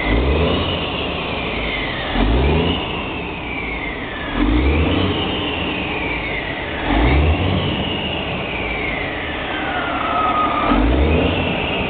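Freightliner truck's diesel engine revved in short blips about every two to four seconds, each rev followed by a high whistle that falls in pitch as the engine drops back to idle.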